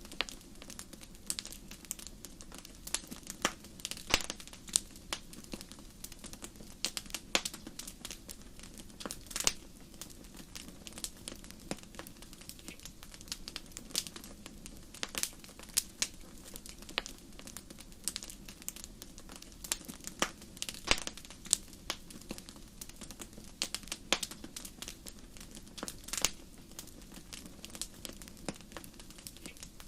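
Wood fire crackling in a fireplace: irregular sharp pops and snaps, several a second, over a steady low rush of burning.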